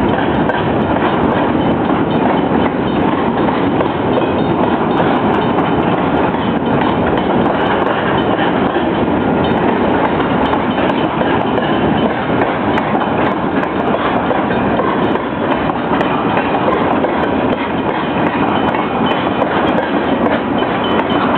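Train rolling past at a street crossing: a steady, loud rumble of wheels on the rails with scattered clicks and clacks from the cars.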